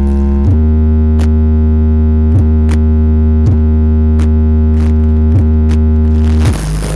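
Loud electronic music with a long, heavy synth bass note and a held chord, played through a large sound-check rig (Riswanda Audio). The bass changes pitch near the end, and sparse percussion ticks run over it.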